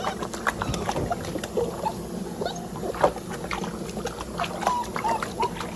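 Water splashing and sloshing in a sink as a Portuguese water dog puppy is bathed, with a few short whimpers from the puppy near the end.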